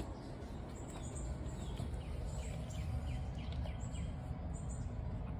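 Steady low background noise with faint, short, high chirps recurring every second or so, and a few brief falling chirps in the middle.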